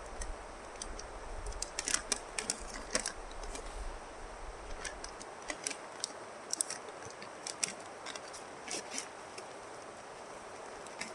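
Outdoor ambience: a steady hiss, with wind rumbling on the microphone for about the first five seconds, and scattered sharp clicks and ticks all through.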